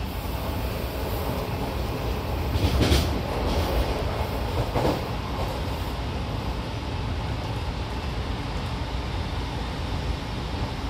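Running noise of an Odakyu 5000 series commuter train heard from inside the car: a steady rumble of wheels on track with brief louder swells about three and five seconds in.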